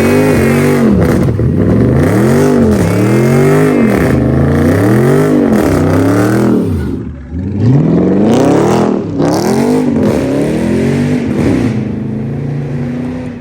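A loud car engine revved over and over in place, its pitch climbing and dropping about once a second. After a short break midway it revs again, then settles to a steady idle near the end.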